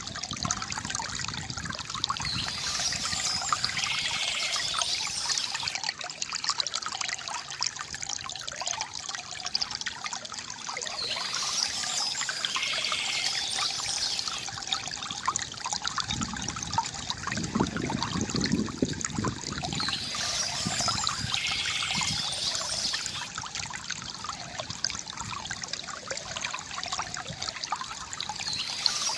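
Water trickling and gurgling steadily from a bamboo fountain, with a deeper gurgle about two thirds of the way in. Birds chirp in short spells that recur about every nine seconds.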